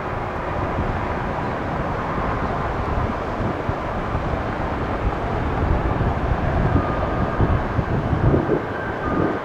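Jet engine noise from a Boeing 757-200 on its landing, a steady rushing rumble that grows louder and more uneven in the second half.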